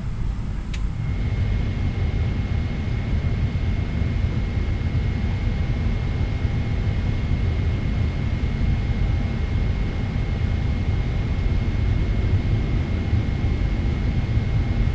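Steady low rumble inside a Boeing 777-300ER's cabin as the airliner taxis, engines running. A click about a second in is followed by a thin, steady high tone that holds on.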